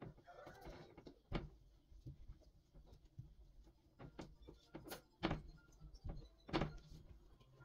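A handful of separate light knocks and clicks, spaced a second or more apart, as household objects are handled and set down.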